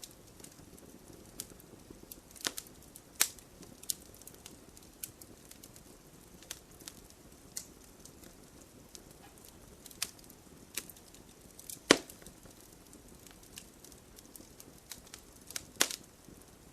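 Wood fire crackling: irregular sharp pops and snaps over a soft low hiss, the loudest pop about twelve seconds in and a quick cluster of pops near the end.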